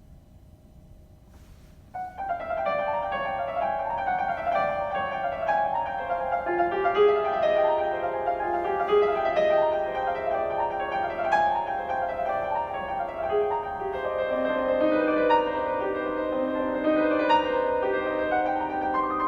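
Solo piano playing a flowing run of quick notes, starting about two seconds in after a quiet pause, with a lower line of held notes coming in underneath partway through.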